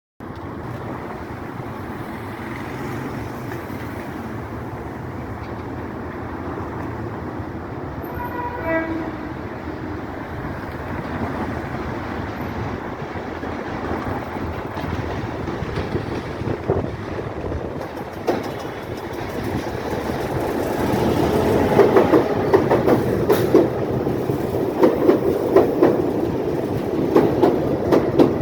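A train running on the line, its noise building steadily. A short horn sound comes about eight seconds in. From about twenty seconds the train is louder and close, with a clatter of wheels over the rail joints.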